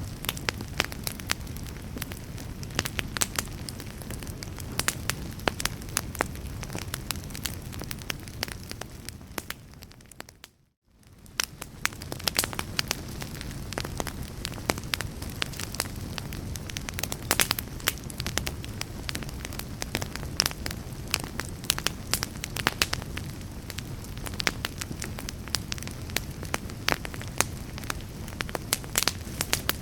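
Wood fire crackling with frequent sharp pops over a steady low rumble. About a third of the way in the sound fades out to near silence for a moment and fades back in.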